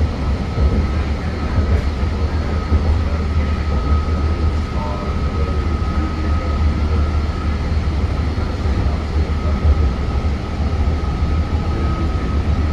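Train running steadily: a continuous low rumble with a thin, steady high whine over it.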